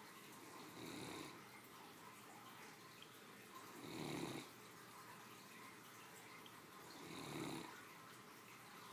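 Sleeping Great Dane snoring: three snores about three seconds apart, each lasting under a second.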